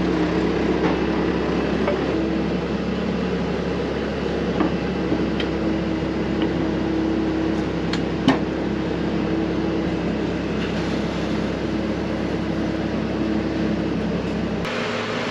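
Skid steer loader engine running steadily under load as it pulls a truck by chains, with a few sharp metallic knocks, the loudest about eight seconds in.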